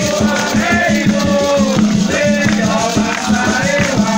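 Afro-Brazilian Xangô ritual music: hand drums beating a quick, steady rhythm with shaken rattles, under sung chanting voices.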